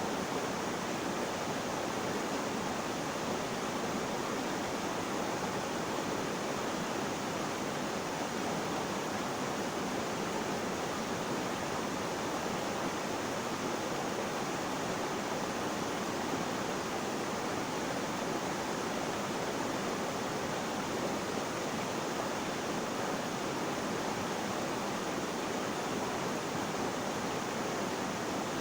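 Flowing water rushing steadily, an even, unbroken noise with no change in level or pitch.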